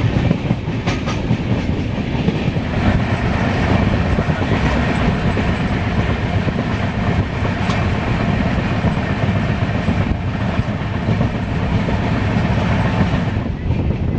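Steady running noise of a moving LHB passenger coach: wheels rolling on the rails with a clickety-clack over the rail joints.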